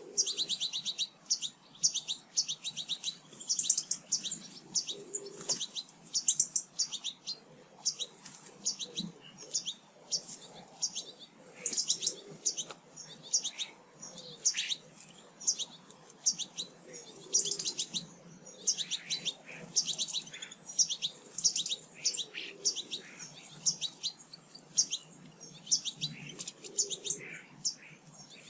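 Small garden songbirds chirping, with many quick, high-pitched calls overlapping one another without a break.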